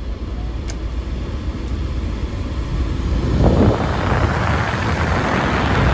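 Climate-control blower of a 1992 Mercedes 300D speeding up after the temperature is turned down, a rush of air that grows louder from about three seconds in, over the steady low rumble of the idling diesel.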